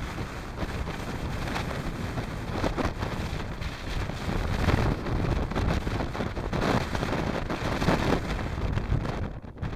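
Blizzard wind blowing hard across the microphone, a dense rush of noise that swells in gusts, strongest about halfway through and again near the end.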